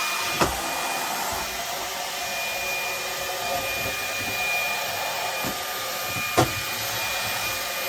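Ryobi One+ cordless hand vacuum running steadily with a thin high whine, picking up debris. Two sharp knocks, about half a second in and near the end.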